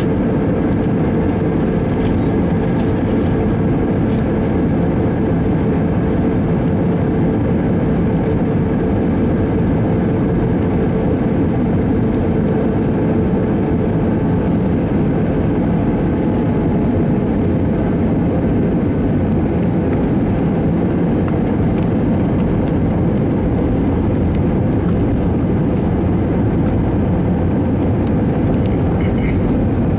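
Steady roar of an Airbus A321-200's engines and rushing air, heard from inside the passenger cabin on approach, with a faint steady hum that fades out about ten seconds in.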